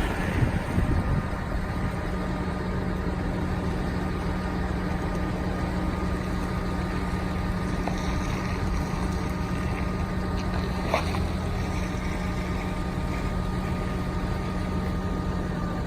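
Diesel engine of a 2010 Dodge Ram 5500 bucket truck running steadily with the PTO engaged, driving the hydraulic pump as the boom is operated: a constant hum with a faint steady whine over it. A small click sounds about eleven seconds in.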